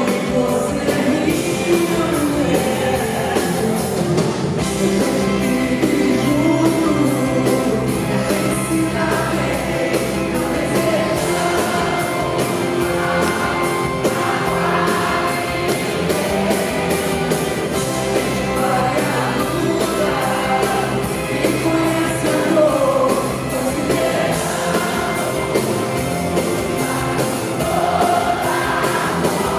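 A pop-rock song performed live in concert: a woman singing over a full band.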